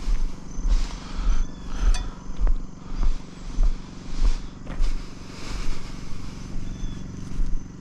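An engine running with a steady low hum and an uneven low throb, roughly two pulses a second.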